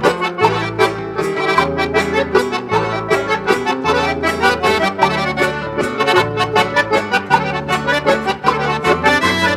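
Accordion-led instrumental gaúcho music, with a bass line stepping along in a steady beat under the accordion's melody.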